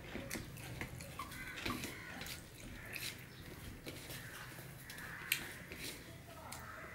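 A person chewing with wet mouth clicks and smacks, while fingers mash and mix rice on a stainless steel plate; one sharper click stands out about five seconds in.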